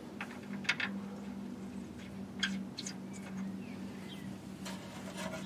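Scattered light clicks and knocks of tools and parts being handled, over a steady low hum.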